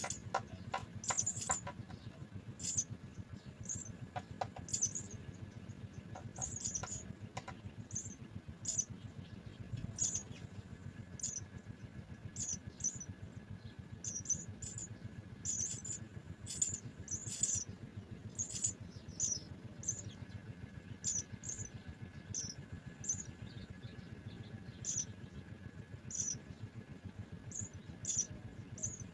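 House sparrow nestlings cheeping: short, very high-pitched chirps repeated irregularly, one or two a second, with a few soft clicks in the first several seconds.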